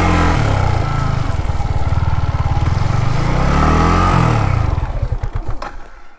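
Yamaha MT-15's single-cylinder motorcycle engine running under load off-road, revving up and back down about halfway through. Near the end its firing slows and fades out as the engine dies.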